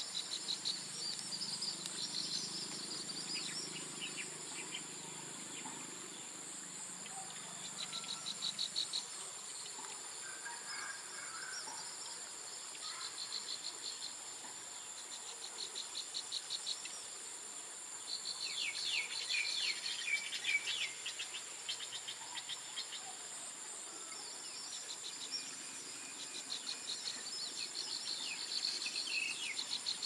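A prinia singing in repeated bursts of rapid ticking trills, each lasting a few seconds, over a steady high drone of insects.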